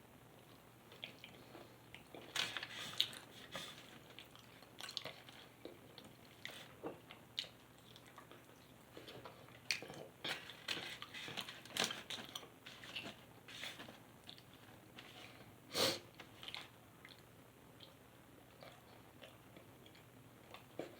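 Close-up chewing and biting of food, irregular clicks and crunches at an uneven pace, with one louder crunch about 16 seconds in.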